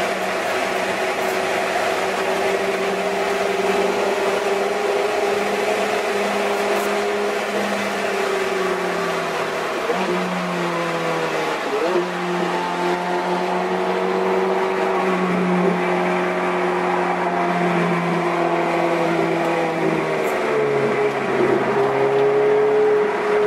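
Ferrari F430's V8 engine running under load on a race track, heard from inside the car. Its note holds fairly steady, with three brief dips in pitch before it climbs again near the end.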